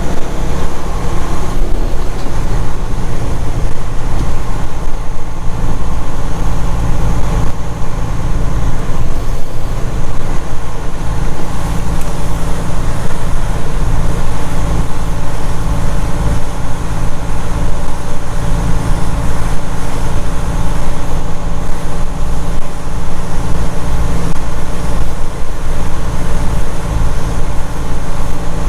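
Semi truck's diesel engine running steadily under way, heard from inside the cab as a loud, even low drone with road noise.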